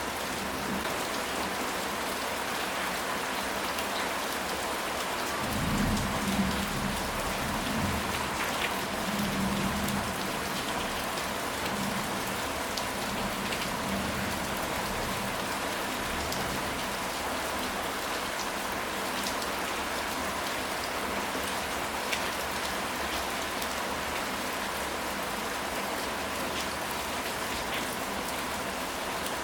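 Steady rain falling, with scattered drop ticks. A low rumble of thunder comes in about six seconds in and dies away over several seconds.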